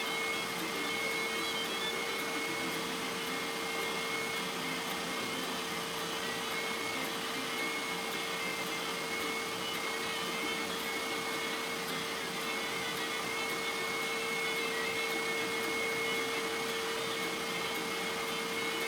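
Electric power tool running steadily in a woodshop, a constant motor hum with a high whine above it, unchanging throughout.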